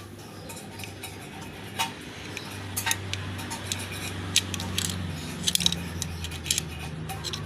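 Irregular metallic clinks and taps, a few at a time, over a steady low hum.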